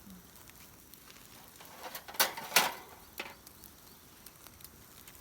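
Two sharp clattering rustles close together about two seconds in, then a fainter one: food and cooking gear being handled at a campfire grill.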